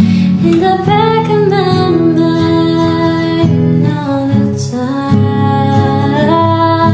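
Music: a woman singing a slow melody over acoustic guitar accompaniment.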